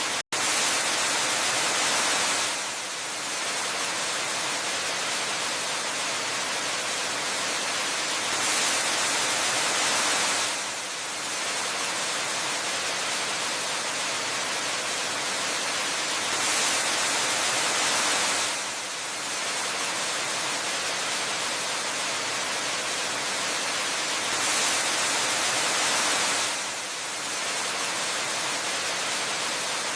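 Steady rushing of a waterfall, a bright hiss with little low end. It grows slightly louder for about two seconds roughly every eight seconds, and the sound drops out for an instant just after the start.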